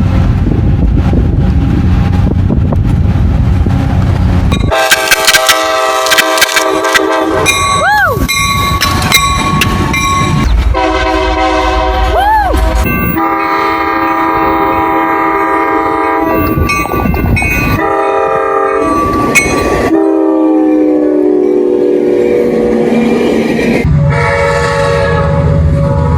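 A train running with a low rumble, then a locomotive's air horn sounding a chord of several notes in long blasts from about five seconds in, its chord shifting several times.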